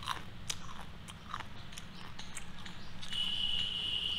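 Hard, crunchy Kurkure-type snack sticks being chewed, giving scattered sharp crunches. About three seconds in, a steady high tone starts and holds for about a second and a half, the loudest sound here.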